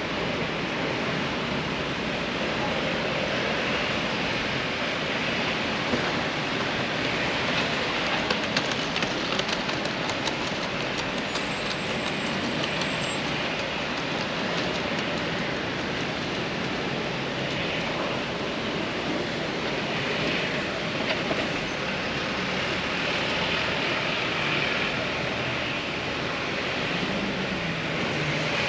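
City street ambience: a steady wash of traffic noise, with a few light clicks about six to eleven seconds in.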